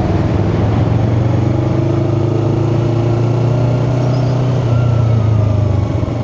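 Yamaha R3's parallel-twin engine pulling under throttle after an upshift, heard through a helmet-mounted mic. Its note holds steady and climbs slightly, then eases off briefly near the end.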